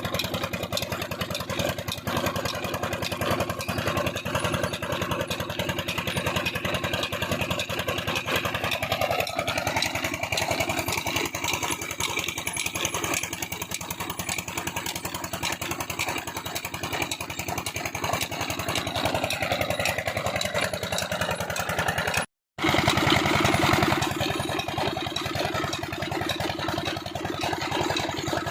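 Old single-cylinder 'Peter' stationary diesel engine running steadily with a fast, even firing knock as it drives a chaff cutter. The sound drops out for a split second about three quarters of the way through and comes back briefly louder.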